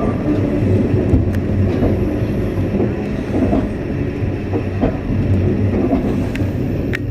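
Moving train heard from aboard a passenger car: a steady low rumble from the wheels on the rails, with a few sharp clicks scattered through it.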